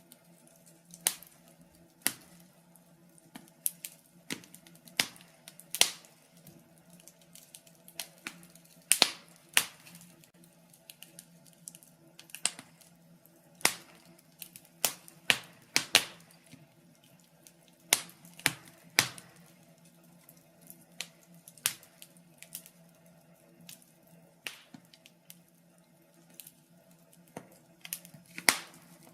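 Logs burning in a fireplace, crackling with irregular sharp snaps and pops, several of them loud. A faint steady low hum runs underneath.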